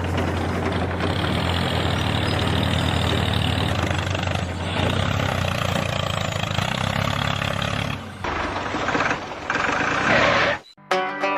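Small motor of a miniature DIY tractor running with a steady low hum; it turns uneven after about eight seconds and cuts off abruptly near the end, where plucked-string music begins.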